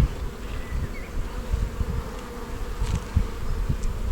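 Honey bees buzzing around an open hive during a frame inspection: a steady hum, with irregular dull low bumps underneath.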